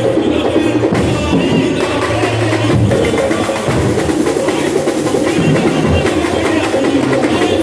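Samba school bateria playing a samba groove: deep surdo bass drums under dense snare and small-percussion strokes.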